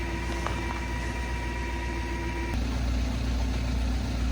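Tow truck engine running steadily, with a faint steady whine over it. About two and a half seconds in the whine stops and the engine hum settles lower and heavier.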